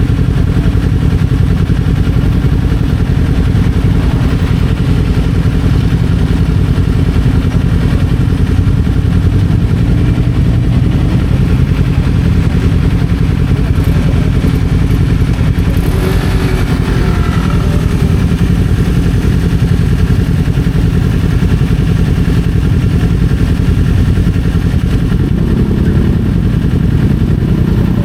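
Kawasaki Z400's parallel-twin engine running steadily under way, heard from the rider's position as a loud, dense low rumble, with a brief higher-pitched sound about halfway through.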